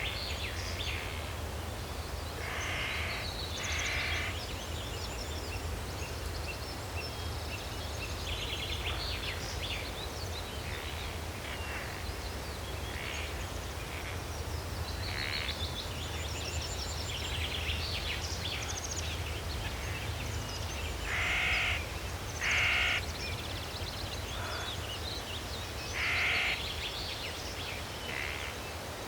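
Crows cawing in short harsh calls, two a few seconds in and three more later on, over smaller birds chirping and a steady low background rumble.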